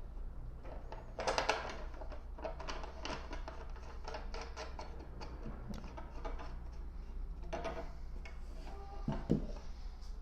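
Clicking and light rattling as a metal wall-mounting bracket is fitted to a small speaker cabinet and fastened with wing nuts. The irregular clicks bunch together about a second in, and a louder knock comes near the end.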